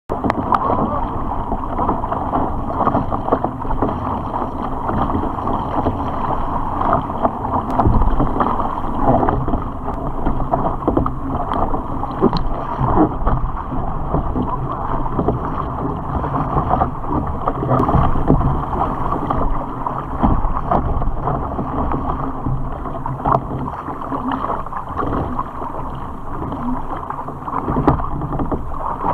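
Kayak under way on the water: a steady rush and splash of water along the hull, with small knocks and ticks scattered throughout.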